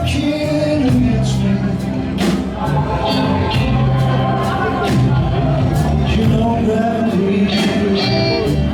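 Live blues-rock band playing, with drums and a sung vocal line over the music.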